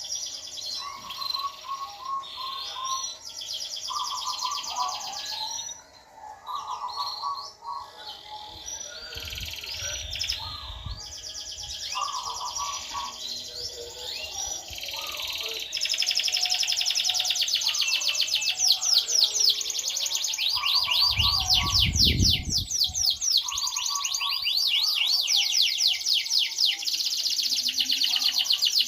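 Domestic canary singing vigorously: long runs of rapid trills and chirped phrases, growing louder and more continuous from about halfway through. A brief low rumble about three-quarters of the way in.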